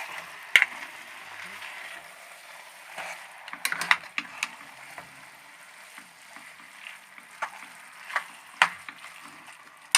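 A spoon knocking and scraping against a pan as cooked mallow greens are turned over to mix in their sauce: irregular sharp clicks over a faint hiss, with a cluster of knocks in the middle and a few more near the end.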